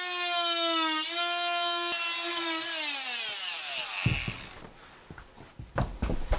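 Oscillating multi-tool whining steadily as it cuts along a line through old floor tiles. It briefly dips about a second in, then winds down in pitch and stops about three and a half seconds in. A few knocks and clicks follow.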